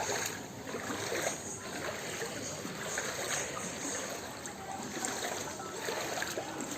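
Steady wash of water on a flooded street, with some splashing.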